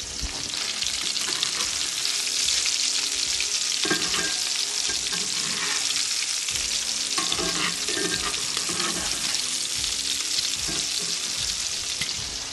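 Black bear meatballs frying in butter and olive oil in a skillet: a steady sizzle. A few short disturbances in the sizzle come as metal tongs turn the meatballs.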